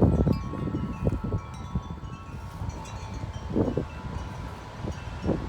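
Wind chimes ringing in strong, gusty wind, several tones overlapping and sustaining. Wind buffets the microphone in gusts underneath.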